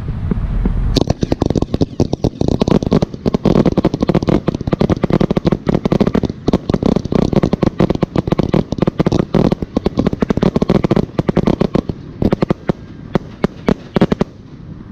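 Fireworks display: a rapid barrage of many sharp bangs and crackles a second, starting about a second in and thinning to scattered bangs near the end.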